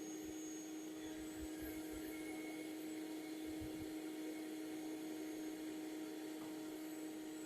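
Steady low hum of a bee vacuum's motor running, holding one constant pitch, with a few faint low thumps from the comb being handled.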